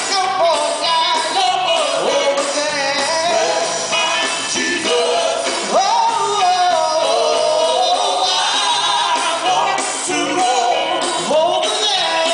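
Live gospel music: a gospel group singing a song with instrumental accompaniment.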